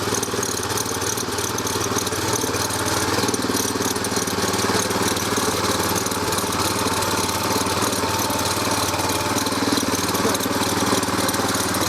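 Walk-behind tractor's Champion 200 cc, 6.5 hp single-cylinder petrol engine running steadily under load while its cultivator tiller blades work through unbroken sod.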